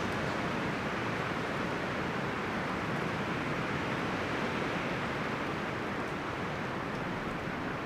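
Wind blowing through forest leaves and branches, a steady rustling hiss.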